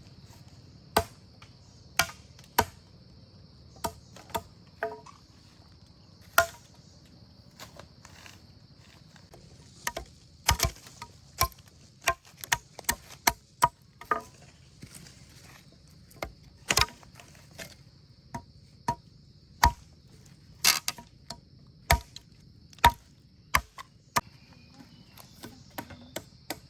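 Irregular series of sharp chopping or knocking strikes, about thirty-five in all, coming in places two or three a second. Under them runs a steady, faint, high insect drone.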